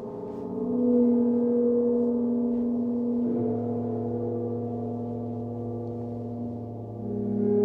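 Sound-healing instruments ringing in long, overlapping sustained metallic tones. A tone swells up about a second in, a new low tone enters about three and a half seconds in, and another swell comes near the end.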